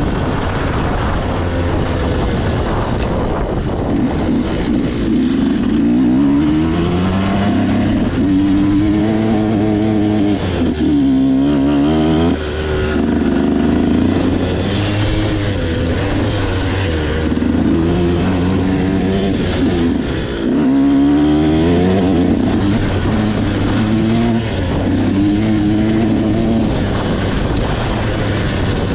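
Motocross dirt bike engine being ridden, revving up and dropping back over and over, its pitch rising and falling every few seconds.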